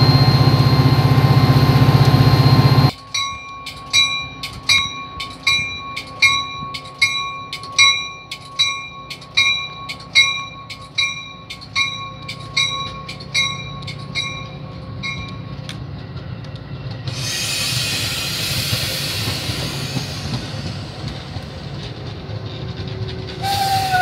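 Metra commuter train: a loud, steady train noise cuts off abruptly about three seconds in. A bell then rings steadily about twice a second, fading away over the next dozen seconds, and the passenger cars roll past with a steady hiss. A new tone comes in just before the end.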